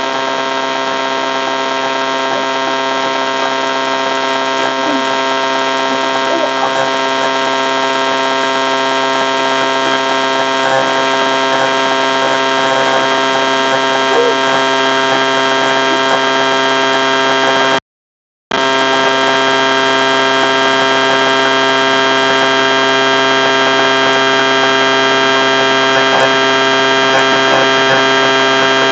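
A loud, steady drone of many held tones that does not change. It cuts out completely for a moment a little past the middle, then carries on the same.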